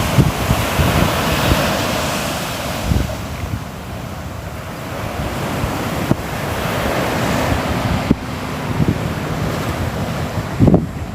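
Ocean waves breaking and washing on the shore, swelling and easing in surges, with wind buffeting the microphone.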